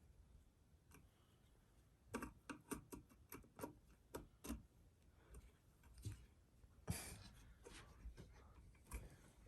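Faint, irregular clicking and tapping of small screws and metal fan parts being handled, with a quick run of clicks about two seconds in and a louder single knock near seven seconds.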